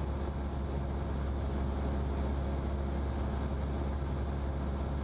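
Cessna light aircraft's piston engine and propeller droning steadily in cruise, heard inside the cockpit.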